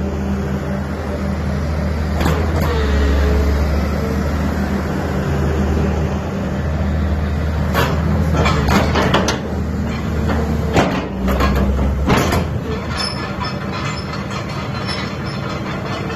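LiuGong 925D excavator's diesel engine running steadily, with a brief whine sliding in pitch about two seconds in and a series of sharp knocks and clatters between about eight and twelve seconds in.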